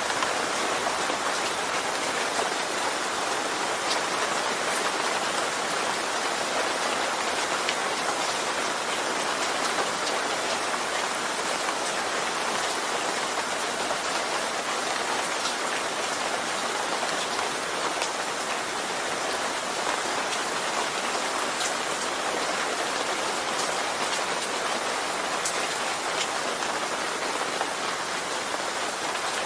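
Steady rain falling, an even hiss of many drops with occasional sharper individual drop ticks.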